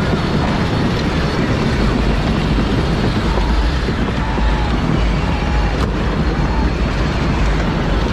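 Power Wheels ride-on toy car driving, a steady rumble of its motor, gears and wheels.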